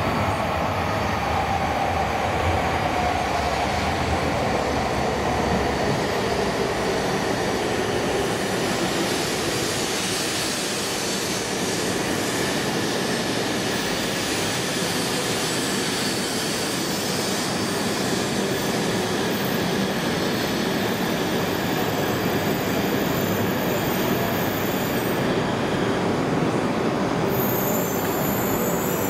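E2 Series Shinkansen train pulling in along the platform and braking: steady running noise of the cars, with a whine that falls in pitch as it slows.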